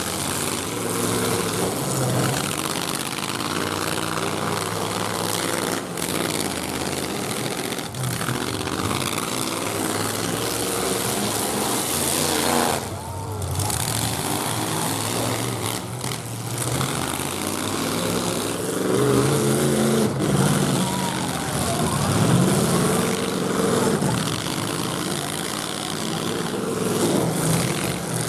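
Several demolition derby pickup truck engines running and revving hard, their pitch climbing and falling as the drivers throttle up to ram each other; the revving is loudest in the last third.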